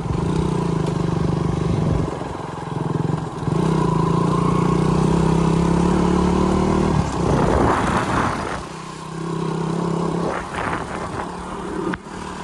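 Motorcycle engine running under way, the throttle easing off and opening again a few times, with a short rushing noise about two-thirds of the way through.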